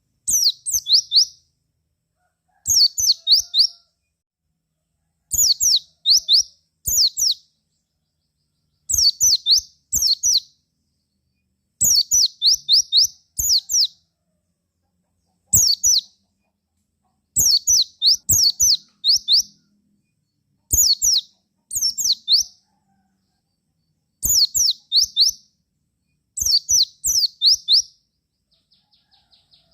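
White-eye (pleci) singing about a dozen short bursts of rapid, high, down-slurred notes, each about a second long, with silent gaps between them. A faint, rapid twittering trill starts near the end.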